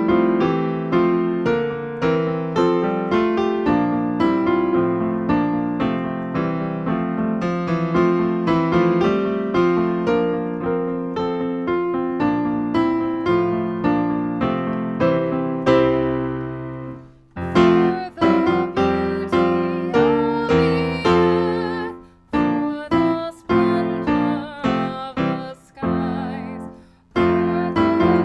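Solo piano playing a flowing run of notes, which fades briefly about two-thirds of the way through, then resumes as separated phrases with short pauses between them.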